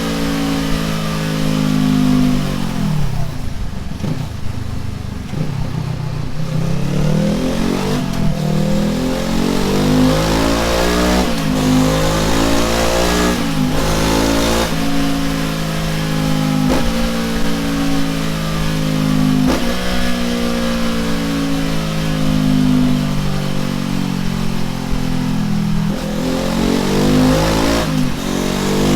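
Honda CB500F parallel-twin engine breathing through an aftermarket titanium oval muffler, run up on a dyno: the engine pitch sweeps up and down again and again, with abrupt changes in pitch every few seconds and a drop to low revs about four seconds in.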